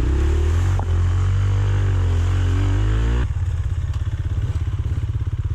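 125cc dirt bike engine under way, its pitch rising and falling with the throttle, then about three seconds in dropping to a fast, even low chug as the revs come down.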